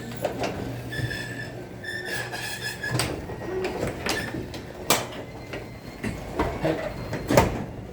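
Genie belt-drive garage door opener running the door along its track, with a brief high squeal about a second in and several sharp knocks, the loudest near the end, while the photo-eye safety sensors are tested.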